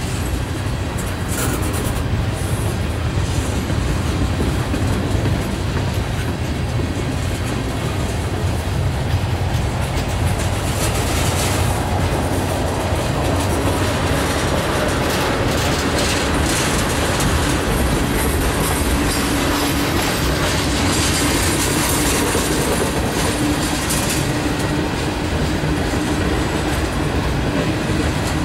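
Mixed freight cars (tank cars, a boxcar, covered hoppers) rolling steadily past at a crossing, with continuous wheel-on-rail noise. A faint steady tone joins in the second half.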